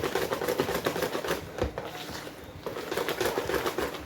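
Hand whisk beating thick cassava batter in a bowl: a fast run of clicking strokes, with a short lull about two seconds in.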